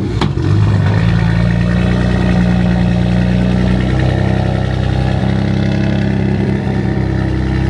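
A BMW F80 M3's twin-turbo straight-six idling steadily, heard at the exhaust. The low, even idle sets in about a second in.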